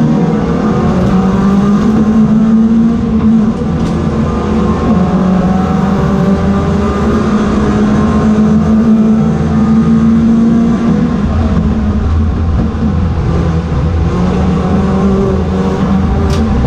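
Ford Fiesta race car engines running hard at high revs, holding a fairly steady pitch with small rises and falls, with a brief dip about three and a half seconds in.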